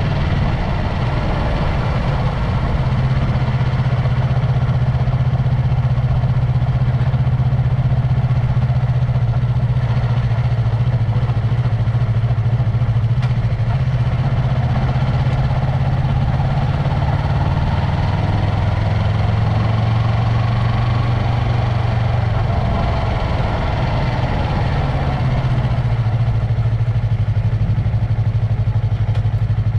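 Yamaha MT-03 motorcycle engine and exhaust running at steady low revs, its note dropping slightly about halfway through and then holding.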